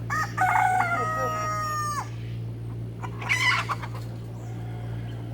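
A rooster crowing once, about two seconds long and ending on a held note, followed about a second later by a shorter, sharper bird call. A steady low hum runs underneath.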